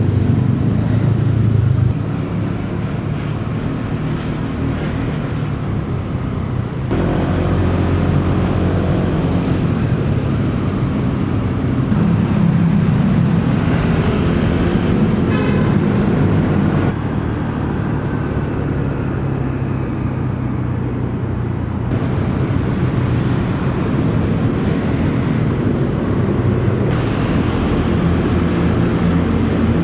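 Motorcycle engine running with surrounding city traffic and road noise. The sound shifts abruptly about every five seconds.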